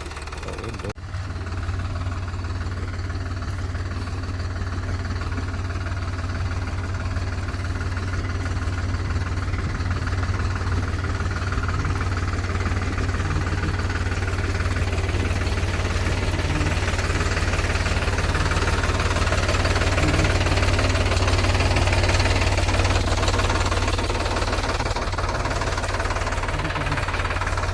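Sonalika DI 35 Sikander tractor's diesel engine running under heavy load as the tractor pulls through wet mud. It grows gradually louder over the stretch and peaks a little past the middle.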